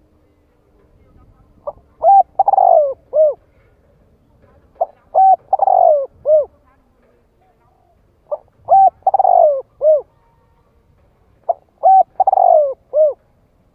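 Spotted dove singing its cooing song, four repeated phrases about three and a half seconds apart, each a short lead-in note followed by a few coos with a falling note in the middle. It is the decoy song used to lure and provoke wild spotted doves into answering.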